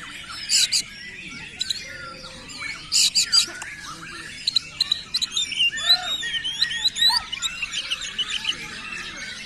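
Oriental magpie-robin (kacer) singing hard in the 'konslet' style, a rapid, varied run of whistled slurs and trills broken by loud harsh rasping notes. The harshest bursts come about half a second in and again around three seconds in.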